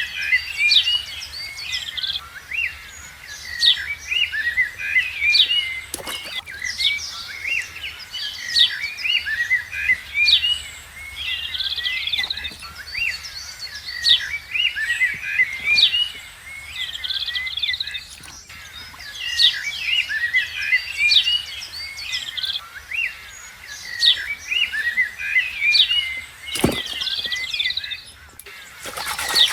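Many small birds chirping continuously in a dense, overlapping chorus of short high calls. A single knock sounds near the end.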